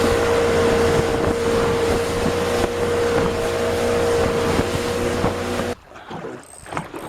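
Motorboat engine running steadily under way, with wind and water rushing past. The sound cuts off abruptly about six seconds in.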